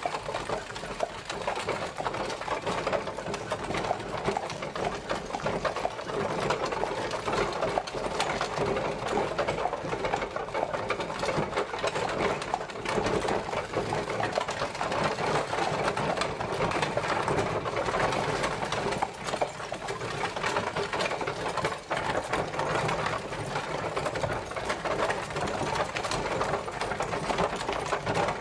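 Horse-drawn carriage travelling: a continuous, fast clatter and rattle of its wheels and wooden body, with no let-up.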